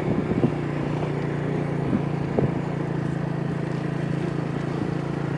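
Motorcycle engine running at a steady pace while riding, with a few short knocks near the start and about two seconds in.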